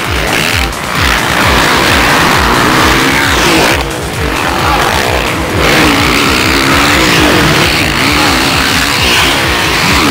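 Motocross motorcycle engines revving, their pitch rising and falling over and over.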